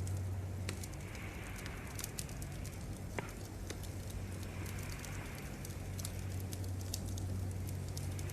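Wood fire crackling, with frequent sharp pops over a steady low hum. A soft hiss swells and fades every few seconds, and a short downward chirp comes about three seconds in.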